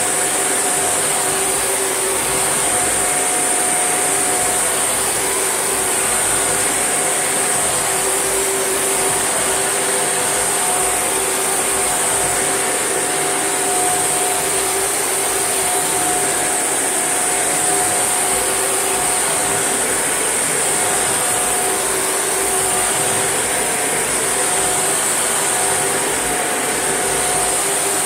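Shark NV801UK upright vacuum cleaner running steadily at an even level, a constant high whine over the rush of air.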